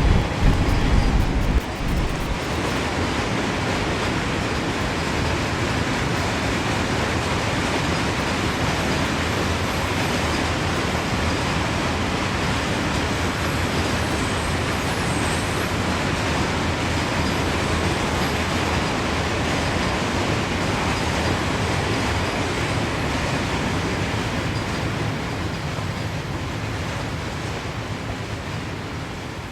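Steady road and tyre noise from a moving car, with a heavier low rumble in the first couple of seconds and easing slightly near the end.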